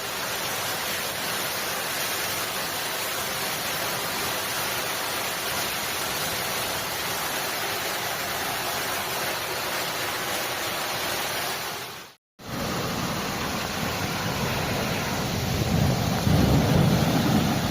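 Steady rushing hiss of a heavy storm downpour. About 12 seconds in it cuts off briefly, then resumes with a low rumble that grows louder toward the end.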